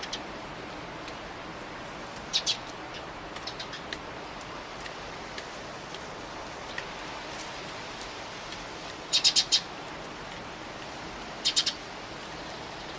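Eurasian tree sparrows chirping in short quick clusters: a pair about two seconds in, a louder run of four after about nine seconds, and three more near the end. A steady rush of strong wind runs underneath.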